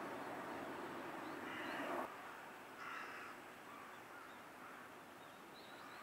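Two short, harsh bird calls, the first about one and a half seconds in and the second about a second later, over a steady rushing background noise that cuts off abruptly between them. A few faint high chirps near the end.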